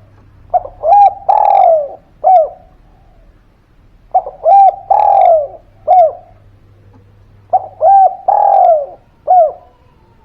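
Spotted dove (derkuku) singing its cooing song three times, each phrase a few short coos, one long drawn-out coo and a short closing note. This is a 'gacor' lure call used to get quiet doves to answer.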